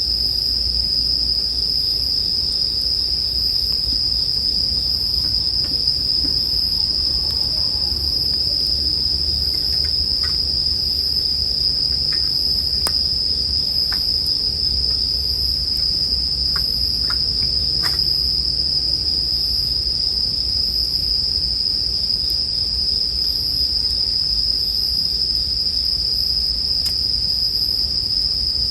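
Bell crickets (suzumushi) singing in a continuous high-pitched chorus, with a few faint crackles from a campfire in the middle.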